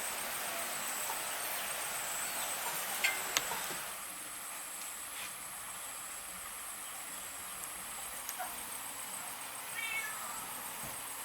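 Outdoor ambience with a steady high-pitched insect buzz, two sharp clicks about three seconds in, and a short animal call, cat-like, about ten seconds in.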